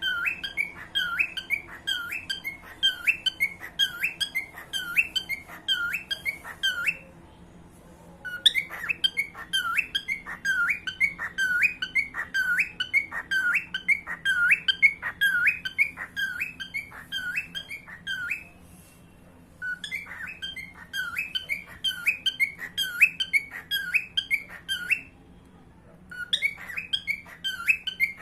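Pet cockatiel whistling a fast run of repeated notes, about two a second, each swooping down in pitch and back up. The run breaks off three times for a second or so.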